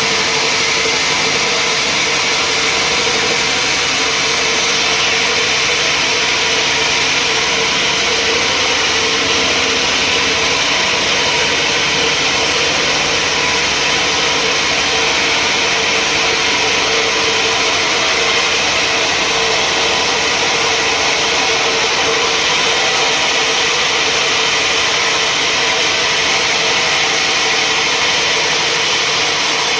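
Sawmill machinery running steadily: a constant mechanical whine over a dense hiss, with no change in speed or load.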